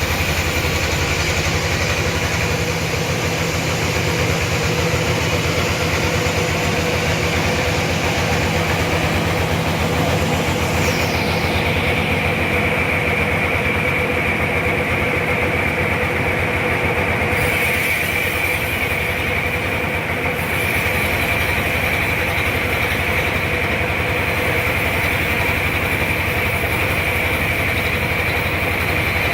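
Sawmill machinery running steadily: a continuous engine drone with a steady high whine. About a third of the way through, the high hiss sweeps down and thins out.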